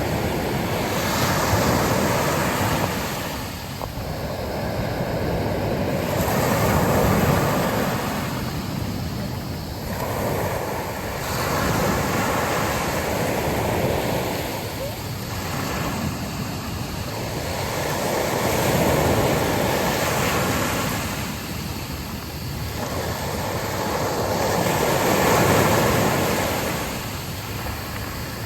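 Sea waves breaking and washing onto a beach, surging and ebbing in a slow rhythm about every five to six seconds, with wind blowing.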